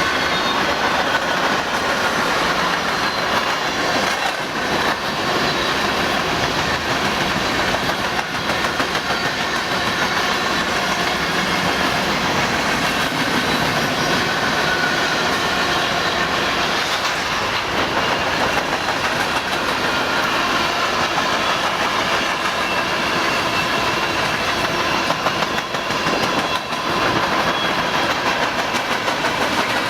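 A train's cars rolling steadily past at close range: steel wheels running and clacking on the rails, with thin steady high-pitched tones over the noise.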